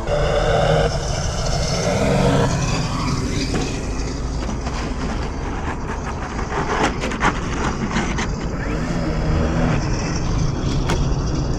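Radio-controlled GeeBee Z model plane in flight: its electric motor and 18-inch propeller, with a Benedini sound module giving an engine note. A pitched engine note is heard for the first couple of seconds, then it settles into a steadier, rougher drone. Buffeting on the microphone comes midway.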